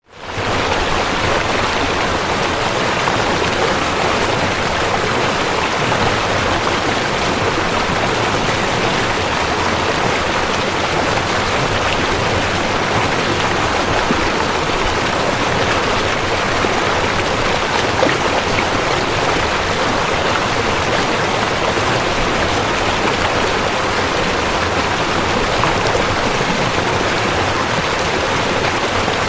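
River water rushing steadily, an even roar of noise with no pauses, fading up from silence in the first half second.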